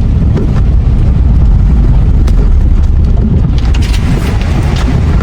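Strong gusting wind buffeting the microphone: a loud, ragged low rumble with no steady tone.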